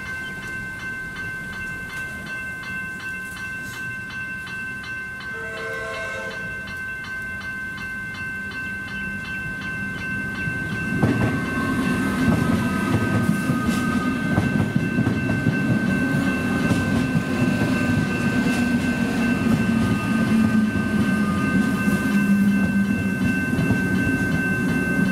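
Level-crossing electronic bells (General Signals e-bells) ringing steadily, with a short horn blast about six seconds in. About eleven seconds in, an electric suburban train arrives and runs through the crossing, and its rumble and wheel clatter become the loudest sound.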